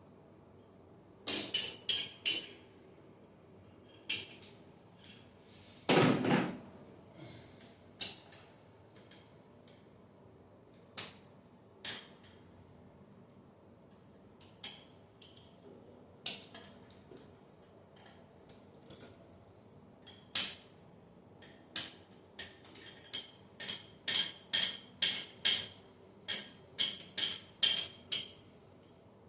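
Metal being struck with a hand tool: scattered clanks and taps, with a run of ringing strikes, about two a second, near the end.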